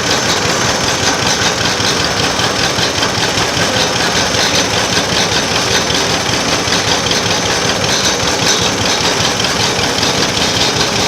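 Vintage tractor engine running steadily at an even throttle while the tractor is driven, heard close from the operator's seat.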